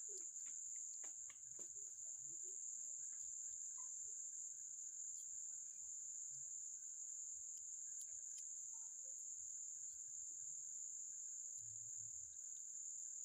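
Faint, steady high-pitched insect chorus, with a few scattered faint clicks.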